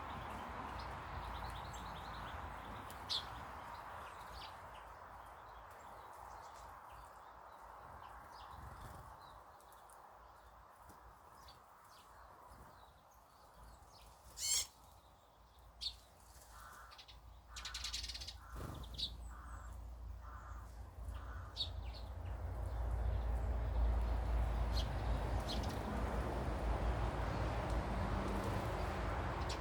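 Garden birds calling: a couple of short sharp calls, then a run of about half a dozen short repeated calls, with a crow-like cawing quality. A steady low rumble comes up in the last third.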